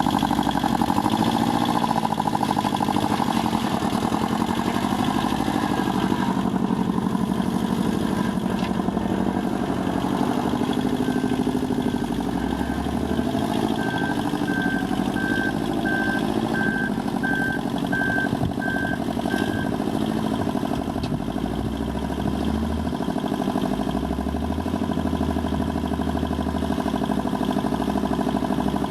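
Kubota B600 compact tractor's diesel engine running steadily, with small rises and falls in speed. Near the middle comes a run of about eight short, high beeps, roughly one every second.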